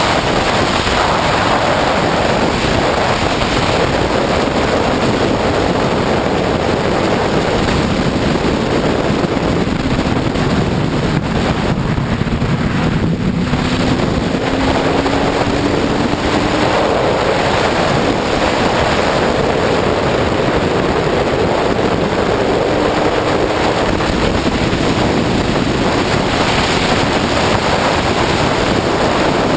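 Heavy wind roar on the microphone of a sportbike ridden at freeway speed. The engine's note rises faintly underneath twice, as the bike accelerates.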